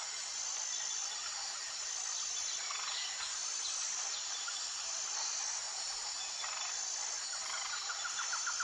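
Steady, high-pitched chorus of insects such as crickets, with a few faint bird calls. Near the end a fast pulsing trill comes in.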